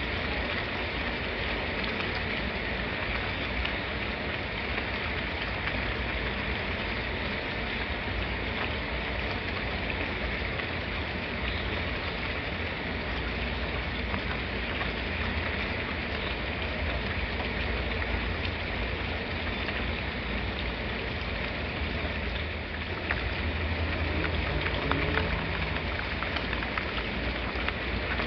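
Steady rain falling, a continuous hiss of drops with fine patter, getting a little louder in the last few seconds.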